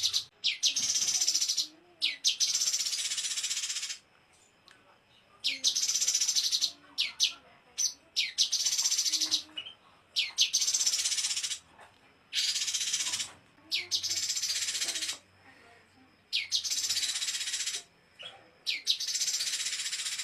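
Small songbird giving a 'tembakan' rapid-fire song, played as a masteran recording: repeated bouts of a fast, high, buzzy trill about one to two seconds long, each opened by one or two short sharp upswept notes, with brief pauses between.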